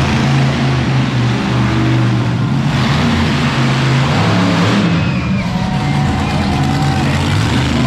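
Monster truck engine running loud and steady, swelling for about two seconds in the middle.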